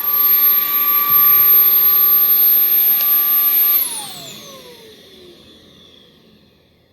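Bissell CleanView XR Pet 300W cordless stick vacuum running with a steady high-pitched motor whine; it is switched off almost four seconds in and the whine falls in pitch and fades as the motor spins down.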